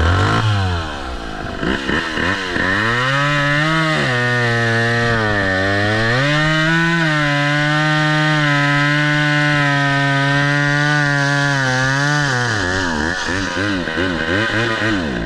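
Two-stroke chainsaw running hard, its pitch swinging up and down, then holding high and steady. Near the end the revs waver up and down unevenly as the saw runs out of fuel.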